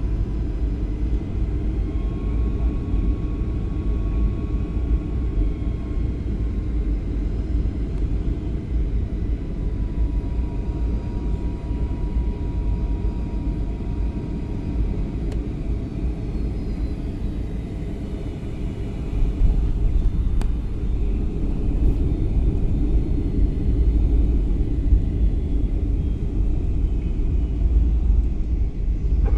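Airliner cabin noise during the landing: a steady low rumble of engines and airflow, with faint thin whining tones above it. The rumble grows louder about two-thirds of the way through.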